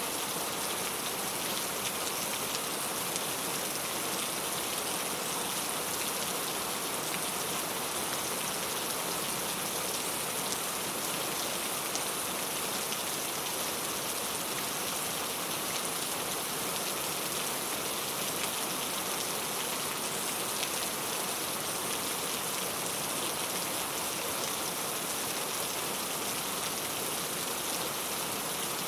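Steady rain falling on a clay-tile roof: a dense, even patter of drops that holds the same level throughout.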